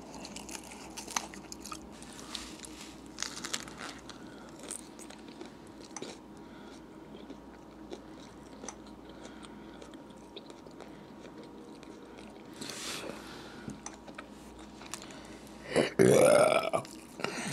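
Close-miked chewing and biting of a soft roast beef sub sandwich, with wet mouth clicks and smacks. Near the end comes one loud burp.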